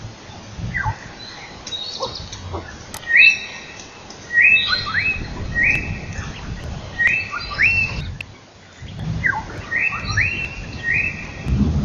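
Wild birds singing: a high whistled phrase, a note that sweeps up and then holds, repeated over and over, mixed with shorter falling notes. A low rumbling noise lies underneath.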